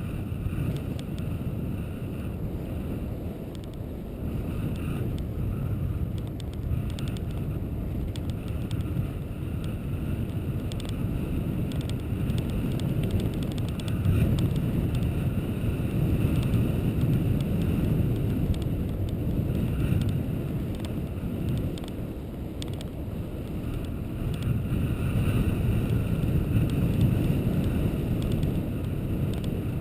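Steady low rumble of wind on the microphone and road noise while moving along a road, rising and falling in strength.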